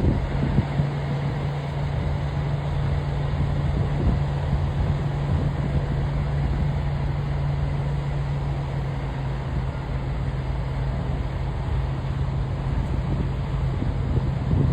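Steady roar of falling water from a waterfall, heaviest in the low end.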